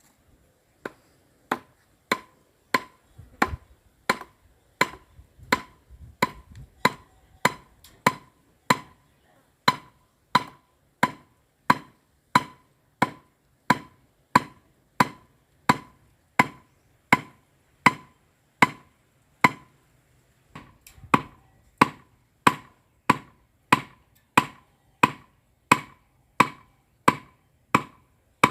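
A sharpened wooden stake being hammered into the ground with steady, evenly spaced blows, about one and a half a second, each a sharp knock with a short ring.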